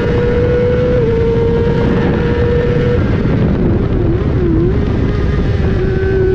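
Inline-four sport bike engine at high revs down a straight, under heavy wind rush. About three seconds in it goes off the throttle; the revs dip and rise twice as it brakes and shifts down. The engine then comes back on, running steadily and slowly falling in pitch as it leans into the turn.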